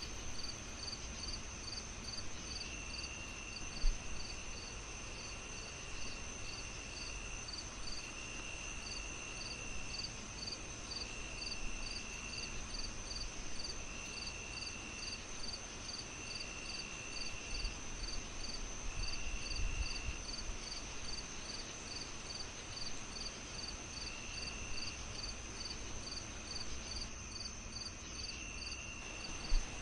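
Crickets chirping in a steady rhythm, about two to three chirps a second, over a continuous high insect trill with shorter lower trills coming and going. Beneath them a fireplace crackles softly, with two sharp pops, one about four seconds in and one near the end.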